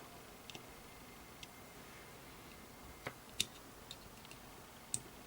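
About six small, sharp clicks and taps of hard objects handled on a circuit board, the loudest a little after three seconds in, over faint room hiss.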